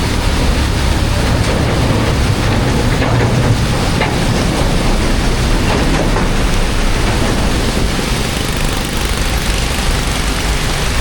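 Loud, steady rush of water with a low rumble underneath, as floodwater pours into an unclogged storm drain.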